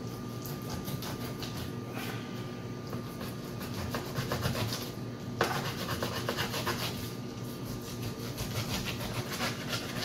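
Serrated knife sawing back and forth through a raw beef pot roast on a cutting board, a repeated rasping rub with each stroke; the meat is tough to cut.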